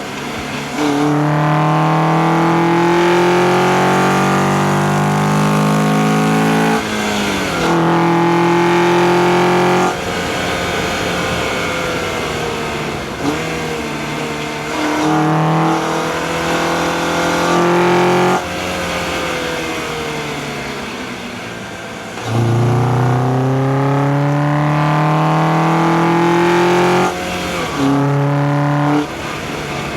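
2004 Acura TSX's K24A2 four-cylinder engine pulling hard several times, its pitch climbing steadily and dropping suddenly at each upshift, with lower-pitched easing-off between pulls. Heard close up through an engine-bay microphone, with intake noise.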